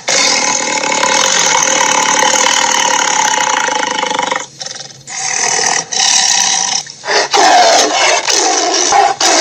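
Cartoon monster roar sound effect for a dragon: one long, rough roar of about four seconds, then a string of shorter roars and growls.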